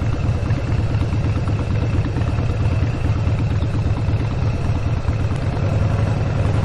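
Harley-Davidson V-twin motorcycle engine running steadily, with a low, even pulsing exhaust note.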